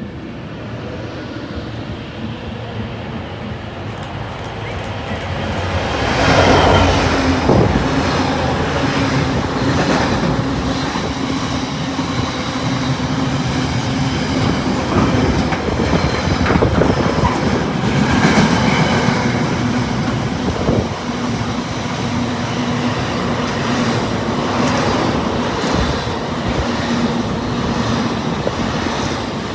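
A train passing close by, getting louder and then loud from about six seconds in. Its wheels clatter over the rail joints in a run of sharp clicks, over a steady low hum.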